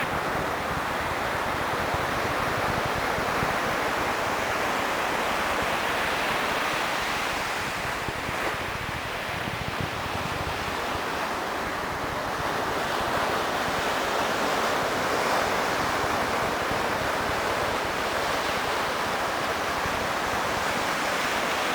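Steady wash of ocean surf breaking on the beach, with wind buffeting the microphone.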